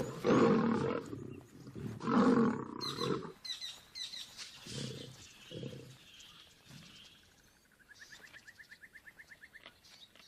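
Male lions snarling and roaring as they fight each other, loud for the first three seconds, then two shorter growls around five seconds in. Near the end a faint, rapid high trill.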